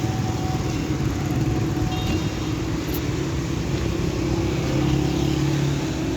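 Road traffic: motor vehicle engines running steadily close by.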